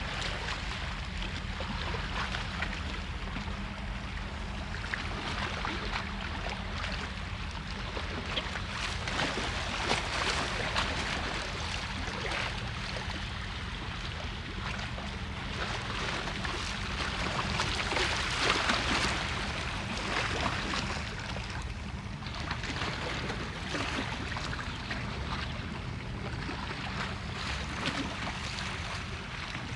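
Outdoor street ambience on a walk: a steady low rumble under a hiss that swells and fades, loudest about eighteen seconds in.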